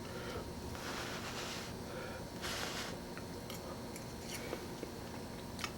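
A man quietly chewing a mouthful of chicken and rice, with a few faint clicks.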